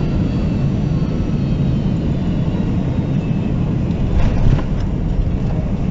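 Airliner cabin noise during the landing approach: a steady rumble of engines and airflow, heavier at the low end and briefly louder with a few knocks about four seconds in.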